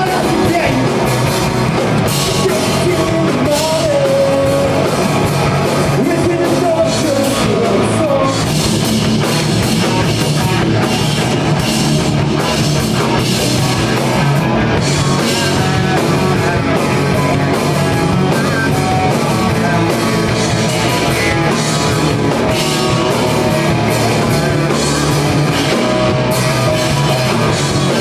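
A rock band playing a song live at full volume, with drum kit, guitar and singing.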